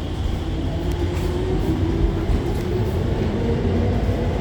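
Alstom Movia R151 metro train running, heard from inside the carriage: a steady low rumble with a faint motor whine above it.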